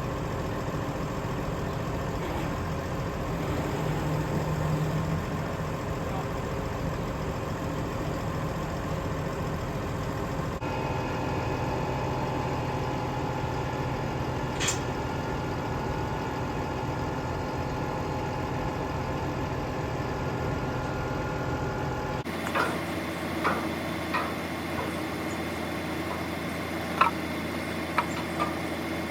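Vehicle engine running steadily, with a few sharp clicks and knocks in the last third.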